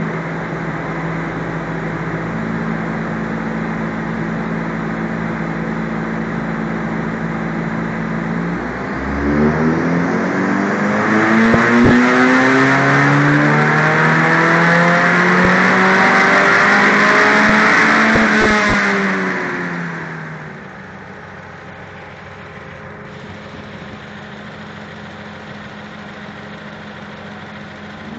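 Toyota Corolla 2E 1.3-litre carburetted four-cylinder running on a chassis dynamometer. It holds a steady speed, then about nine seconds in it pulls hard, its revs climbing steadily for about ten seconds. It then backs off, falls in pitch, and settles to a quieter steady run.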